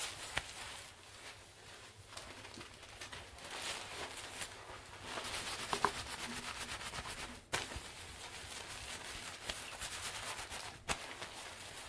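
Long wet hair being rubbed and handled: an uneven rustling, crackling noise with many small clicks, louder in the middle.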